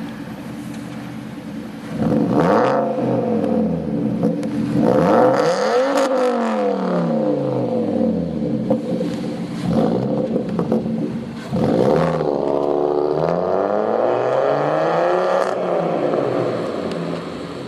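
Fiat Stilo 2.4 engine through a custom stainless-steel sport exhaust, idling and then revved several times. There is a short blip about two seconds in, a rise and fall around the middle, another quick blip, and then a longer climb to higher revs that falls back to idle near the end.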